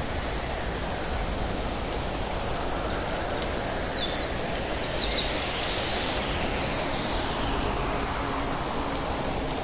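Steady rain falling, an even hiss, with a broad whoosh that swells and fades through the middle.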